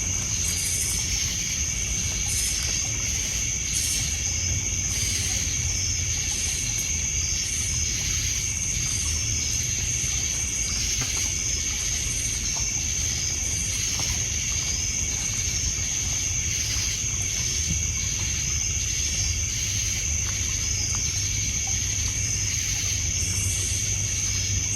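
Night shoreline ambience: crickets and other insects hold a steady high trill with a repeating chirp, over water lapping on a pebble beach. A few faint crackles come from a wood campfire.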